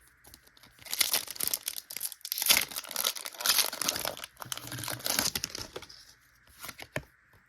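Foil booster pack wrapper crinkling and tearing as it is opened by hand, for about four and a half seconds from a second in, with scattered small clicks.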